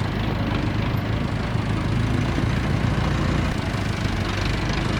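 Mini tractor's engine running steadily, a low even drone with a hiss over it.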